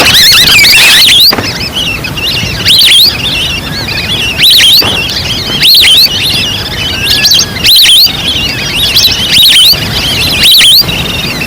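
Wild duck calls from a duck lure recording played loud: high whistled notes with quick up-and-down glides, in bursts about every second and a half. The bursts peak at full level and sound distorted.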